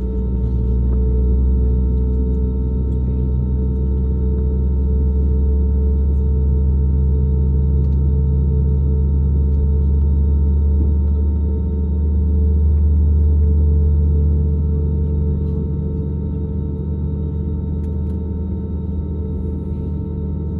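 Steady low drone inside the cabin of an Airbus A320neo, from its engines and cabin air system, with several steady hum tones on top. It swells a little past the middle, then eases back.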